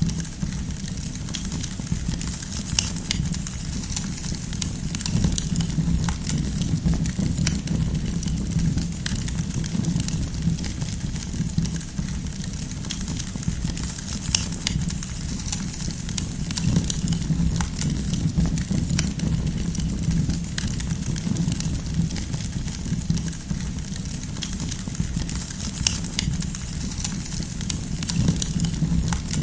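Campfire burning: a steady low rumble of flames with frequent irregular crackles and pops of burning wood.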